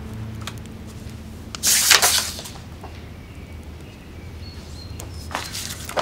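Sheets of paper rustling as they are handled, twice: once about two seconds in and again near the end. Faint birds chirp in the background.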